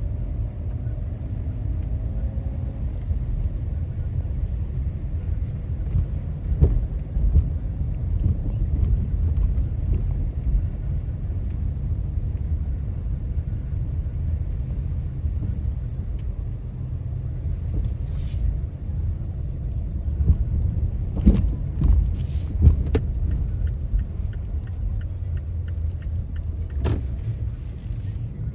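Car driving on snowy city streets: a steady low rumble of road and engine noise, with a few brief sharp knocks, several of them in the last third.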